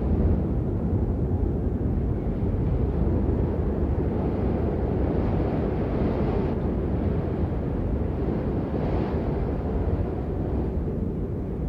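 Steady rain falling, a dense, even wash of noise weighted deep and low, with no separate drops standing out.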